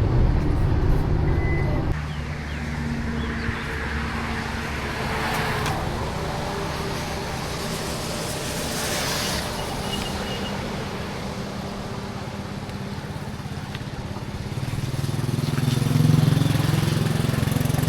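A motor vehicle running with a steady low rumble. It drops sharply about two seconds in and swells again near the end.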